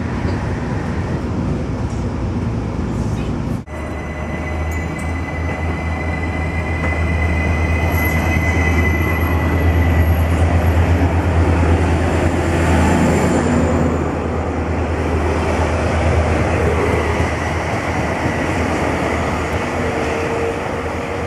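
Steady rumble inside a moving passenger train carriage. About four seconds in it breaks off and gives way to an Elron Stadler FLIRT multiple-unit train running along a station platform, with a strong low hum and a thin steady high whine. The sound of the train swells to its loudest midway.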